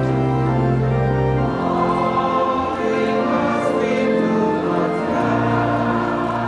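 Church choir singing a slow hymn over long held chords, with the low bass note changing about one and a half seconds in and again about five seconds in.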